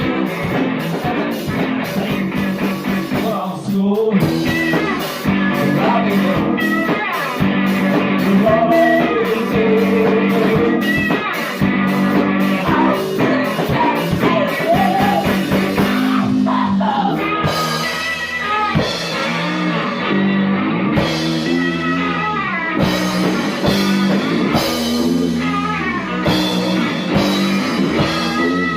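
A rock band playing, with guitar and drum kit and a singing voice over a steady driving beat.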